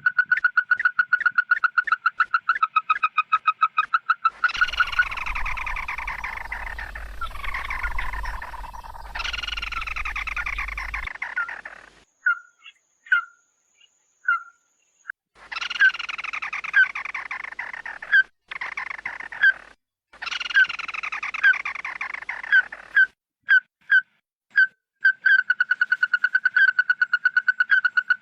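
Bird calls: a fast trill of short repeated notes at the start and again near the end, and in between runs of harsh, downward-sliding chattering phrases broken by scattered single notes and brief pauses.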